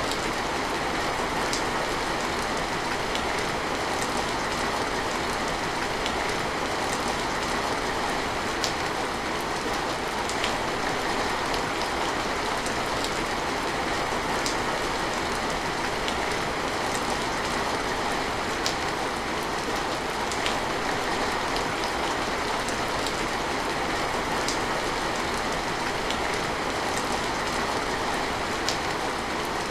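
Steady rain falling, an even hiss with scattered sharp drop ticks here and there.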